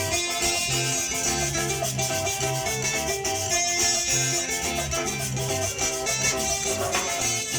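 Colombian carranga music: plucked string instruments playing over a steady shaken or scraped hand-percussion rhythm.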